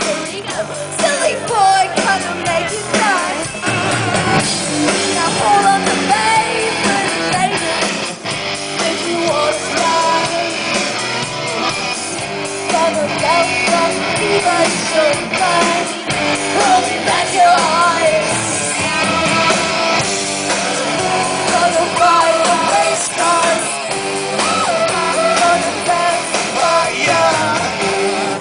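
Live rock band performing a song: a lead vocal sung over electric guitar and drums, loud and continuous.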